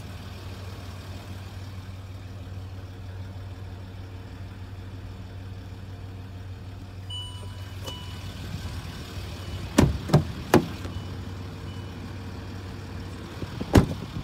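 Land Rover Discovery's engine idling steadily, heard from inside the cabin. From about seven seconds in the vehicle's warning chime beeps several times. Sharp knocks come three times around ten seconds in and once more, loudest, near the end.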